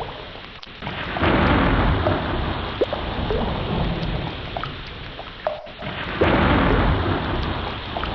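Ocean waves washing in, a dense rushing noise that surges up twice, about a second in and again about six seconds in. Short high chirps are scattered through it.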